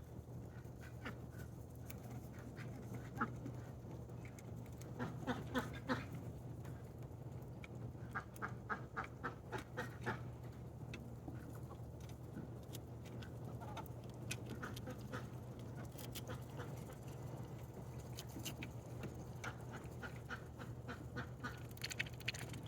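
Domestic ducks quacking in short runs of calls, loudest in two bursts around five and nine seconds in, with a few more calls near the end.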